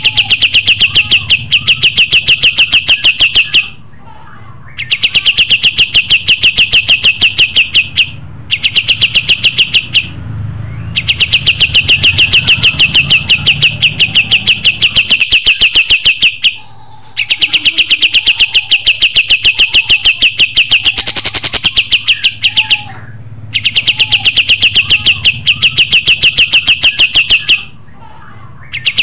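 A kapas tembak songbird singing vigorously in long bouts of rapid repeated chattering notes. Each bout lasts a few seconds, with short pauses in between.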